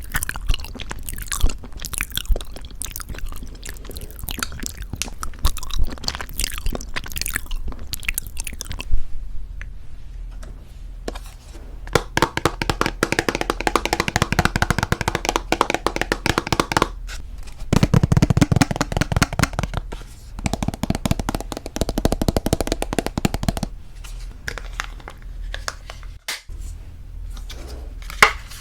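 Close-miked eating of very thick Greek yogurt with honey: sticky, wet mouth sounds and chewing in rapid runs of short clicks, busiest in the second half.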